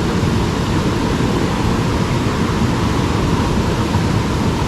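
Steady rush of a mountain stream's fast-flowing water.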